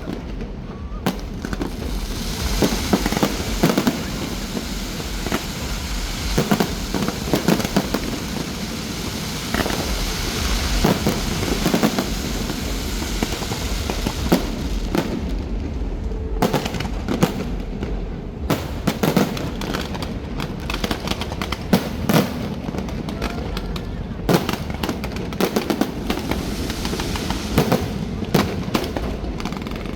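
Fireworks going off: an irregular run of sharp bangs and crackles, with crowd voices underneath.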